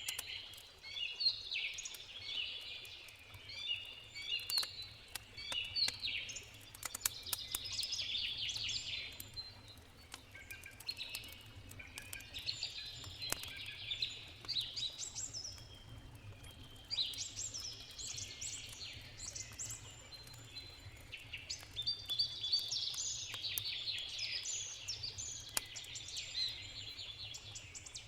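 Songbirds singing in bouts of quick chirping phrases, over the sharp pops and crackles of a wood campfire and a steady low rush of river water.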